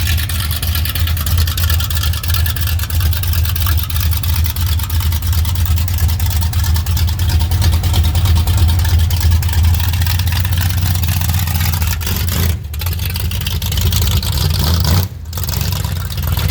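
A car engine running with a steady, deep exhaust rumble. The sound drops out briefly twice near the end.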